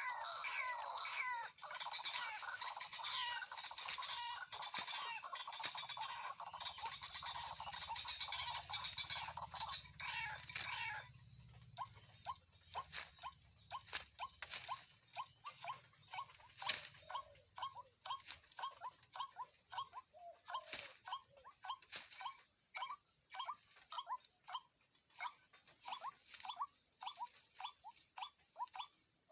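White-breasted waterhens calling: a dense jumble of overlapping short notes for the first ten seconds or so, then a single steady series of short repeated notes, a few a second.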